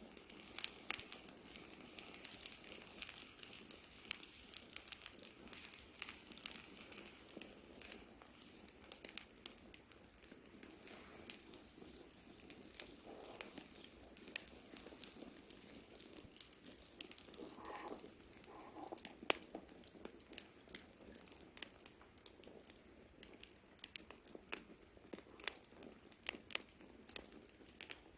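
Campfire burning: frequent irregular sharp crackles and pops of the wood over a soft steady hiss.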